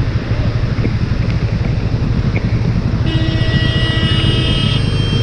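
Motorcycle running on the road, a steady low rumble, with a steady multi-note tone coming in about three seconds in.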